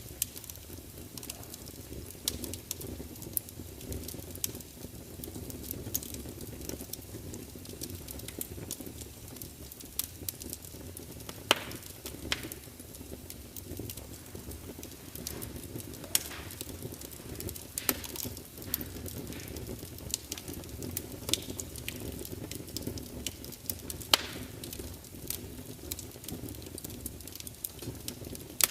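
Log fire burning in a large open fireplace: a steady low rush of flame with irregular sharp crackles and pops from the burning wood.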